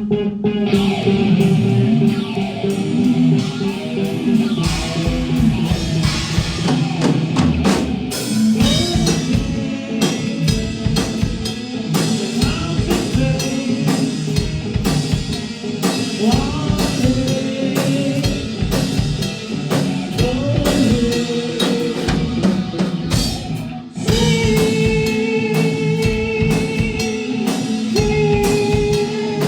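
Live rock band playing an instrumental passage: drum kit keeping a steady beat under electric guitar and bass, with a momentary break about two-thirds of the way through.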